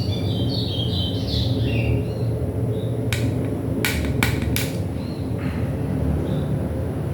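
A few sharp clicks and knocks, small tools or parts striking, during the disassembly of a stereo unit, over a steady low hum. A bird chirps several times in the background in the first couple of seconds.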